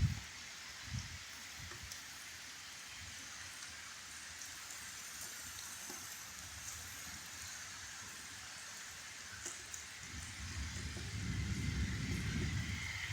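Steady rain falling, an even hiss of drops on surfaces. From about ten seconds in, a low rumble builds under the rain and becomes the loudest sound.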